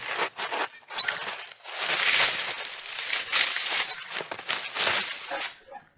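Foliage and branches rustling and cracking in a run of noisy bursts as bears scramble down through a fruit tree.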